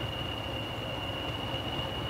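A train running with a steady low rumble, and a single high-pitched whine that holds one unchanging pitch over it.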